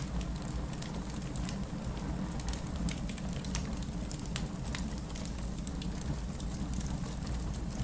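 Wood fire burning steadily, with a continuous low rush of flame and frequent irregular sharp crackles and pops from the burning logs.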